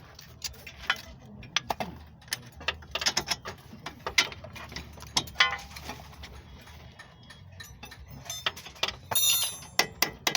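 Metal hand tools and suspension parts being handled: irregular sharp clicks and clinks, with a quick run of metallic rattling about nine seconds in.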